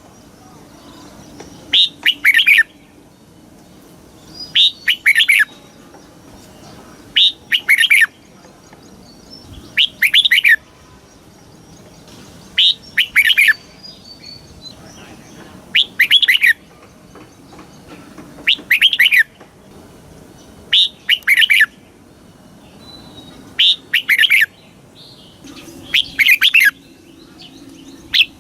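Red-whiskered bulbul singing: short, loud phrases of a few quick notes, repeated about ten times at roughly two-and-a-half to three-second intervals.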